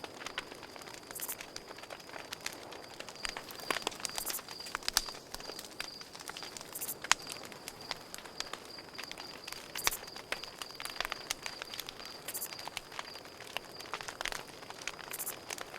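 Campfire crackling, with irregular sharp pops and snaps, the loudest about seven seconds in. Under it a cricket chirps in a steady, pulsing high trill.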